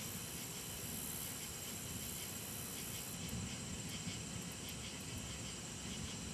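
Steady outdoor storm ambience: a constant hiss with a faint, uneven low rumble from a distant thunderstorm, and no distinct thunderclap.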